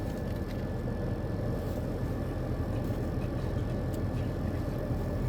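Steady low mechanical hum, like an engine idling, with a thin steady high tone over it and a few faint clicks.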